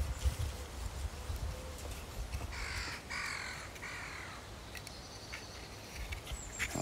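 A bird calls three times in quick succession, short calls a little over half a second apart, near the middle. A low rumble on the microphone at the start.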